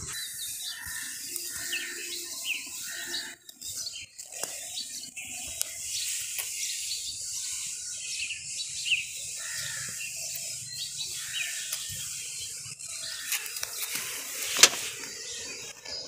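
Small birds chirping outdoors, short high chirps scattered throughout over a steady hiss, with one sharp click near the end.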